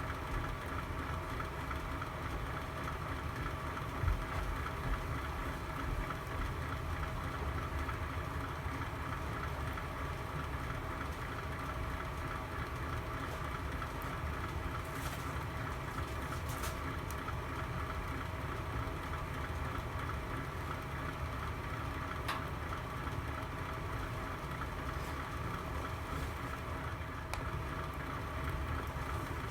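Fireplace fire burning with a steady low rumble and hum, and a few sharp crackles scattered through.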